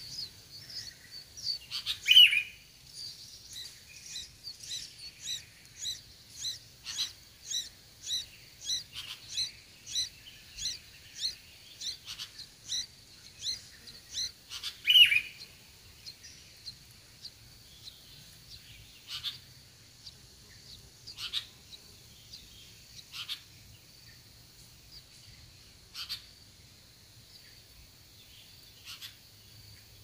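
Sooty-headed bulbul nestlings begging at the nest: a fast, regular run of high cheeps, about two a second, with two louder, lower calls, one about two seconds in and one halfway through. After that the calls thin out to scattered single cheeps.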